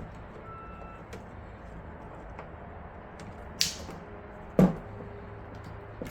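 Hands handling computer parts and cables: a few light clicks, a short hissing rustle about three and a half seconds in, then a sharp knock a second later, over a steady low hum.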